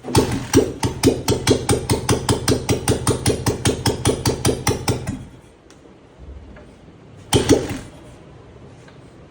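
Royal Enfield Bullet Electra single-cylinder engine started by hand, firing in a slow, even run of thumps at about six a second. It dies after about five seconds, then catches again for a brief burst of firing near the end.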